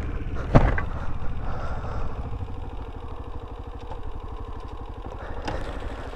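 Dirt bike engine idling steadily, with a short knock about half a second in.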